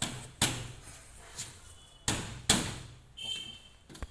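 Sharp metallic knocks and clanks of hand tools against the washing machine's sheet-metal front panel during dismantling, three distinct hits with the third the loudest, followed by a brief high squeak near the end.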